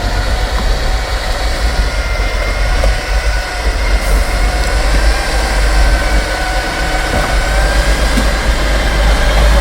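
Off-road trial truck working, its engine and drivetrain running steadily under load: a deep rumble with a whine whose pitch slowly rises and falls.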